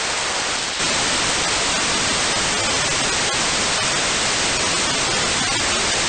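FM radio receiver hiss with no voice coming through, from a station listening to the LAPAN-A2 (IO-86) satellite voice repeater. The static grows louder about a second in, then stays steady with a few faint clicks.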